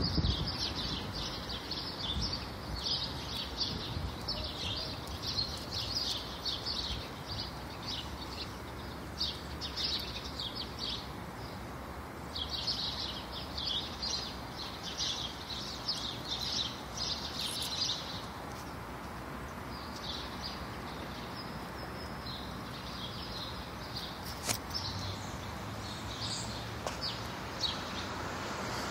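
Small birds chirping in quick, repeated bursts that come and go, over a steady low hum of street noise. One sharp click sounds about three-quarters of the way through.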